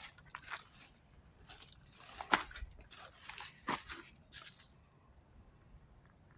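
Irregular crunching and rustling noises, a few a second, that stop about two-thirds of the way through.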